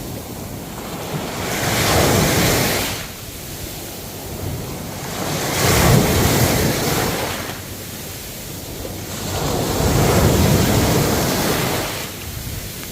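Ocean waves breaking and washing up, in three surges about four seconds apart.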